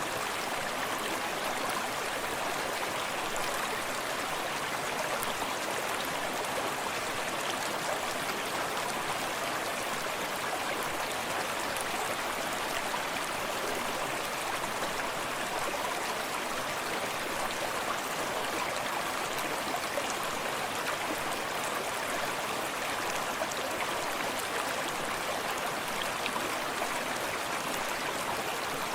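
Small forest stream running steadily over rocks, a continuous splashing and babbling of water with small trickles and drips close by.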